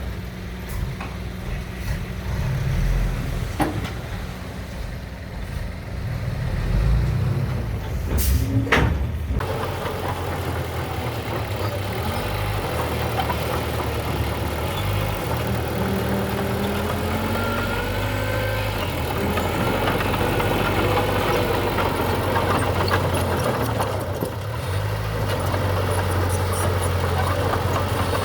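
Heavy diesel construction machinery running steadily, with a short loud burst of hiss about eight seconds in.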